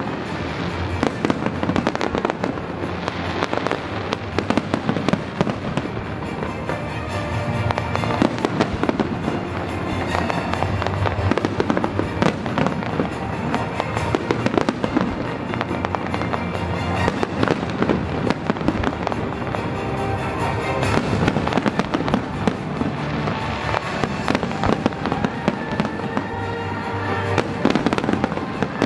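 Aerial fireworks shells bursting over and over in quick succession, with music playing alongside.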